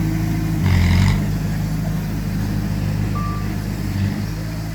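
Heavy diesel earthmoving machinery running steadily, with a brief louder surge under a second in, and a short single beep of a reversing alarm about three seconds in.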